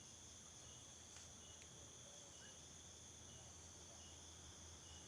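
Near silence with a faint, steady high-pitched chirring of night insects.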